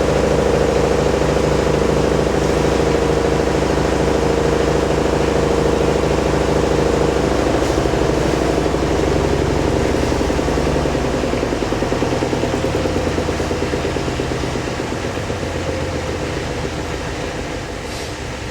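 Hoover DynamicNEXT washing machine's inverter motor and drum on the wool cycle's final 800 rpm spin: it runs steadily, then begins winding down about seven seconds in, fading gradually as the drum slows.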